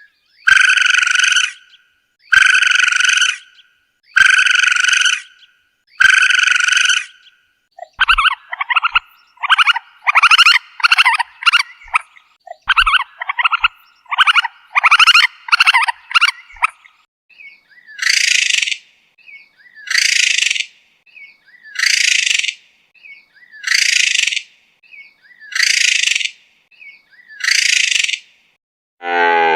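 Raccoon calls: four high-pitched calls about a second long, spaced about two seconds apart, then a run of rapid chittering trills, then six harsher high calls about two seconds apart.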